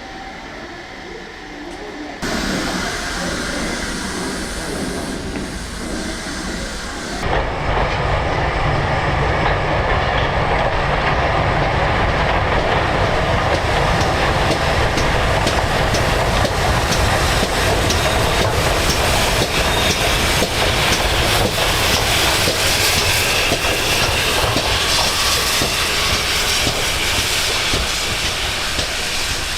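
Heritage steam train running on track, a steady rumble with fast clickety-clack of wheels over rail joints. The sound changes abruptly about two seconds in and again about seven seconds in, then holds steady.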